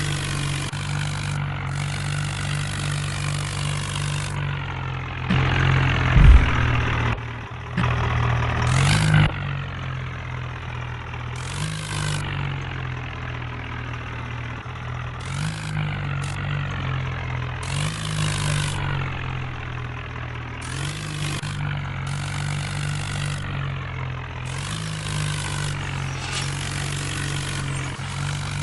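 Tractor engine running steadily, its pitch rising briefly every three seconds or so as it takes load or is throttled up. It grows louder and rougher for a few seconds about five seconds in.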